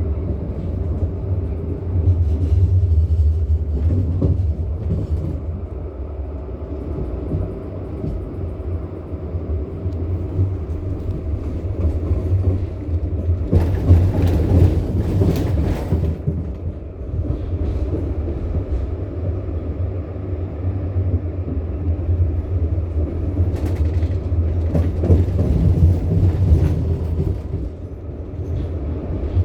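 Bombardier NGTD12DD low-floor tram running on its rails, a steady low rumble, with two stretches of louder hiss and rattle, about halfway through and again near the end.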